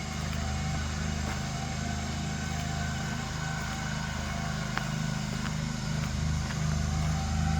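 Lawn mower engine running steadily, a constant low drone, with a few faint clicks.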